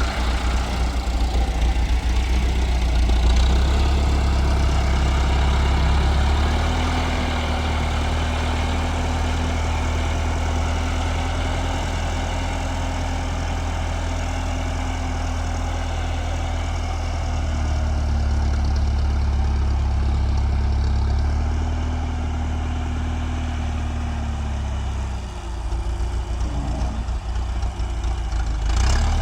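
Tractor engine running steadily, its pitch rising and falling slightly as the engine speed changes, with a brief drop about 25 seconds in.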